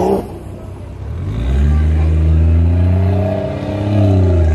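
A revving engine fades out in the first moment. Then a BMW's engine sets in close by, running low and steady as the car rolls out, with its note dipping slightly and rising again near the end as it starts to accelerate away.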